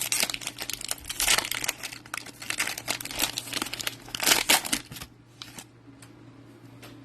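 Wrapper of a Donruss football trading-card pack being torn open and crinkled, dense crackling for about five seconds, then quieter with a few light ticks.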